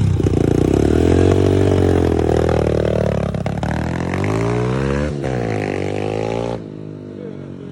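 140cc dirt bike engine running under throttle, its pitch rising and falling as it revs, with a brief dip about five seconds in. The sound drops off sharply about six and a half seconds in.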